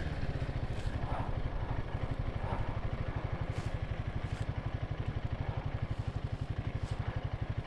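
Royal Enfield Himalayan 450's single-cylinder engine idling with a steady, even pulse.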